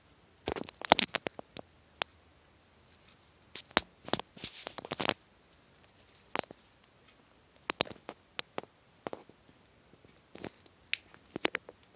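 Two-month-old puppies scampering about, their claws making irregular clusters of sharp clicks and patters.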